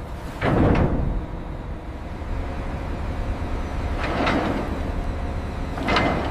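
Steady low rumble of heavy machinery, with three short, louder noisy sounds about half a second, four seconds and six seconds in.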